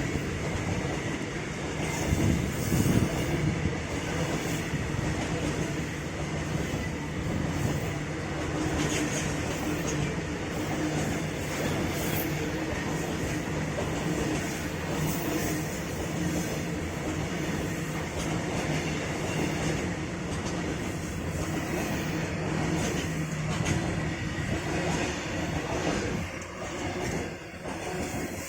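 A freight train hauled by a WAG-9 electric locomotive running past at speed: a steady rolling rumble with clatter of wheels over the rails.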